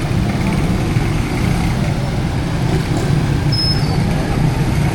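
Steady low rumble of motor traffic engines running, with a short high chirp about three and a half seconds in.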